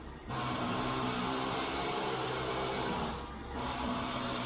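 Boat engine running with a steady drone and hiss, which thins out briefly about three seconds in.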